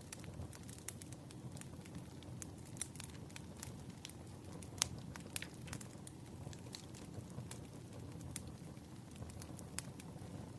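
Crackling wood fire: irregular sharp pops and snaps of burning firewood over a steady low rumble of the flames.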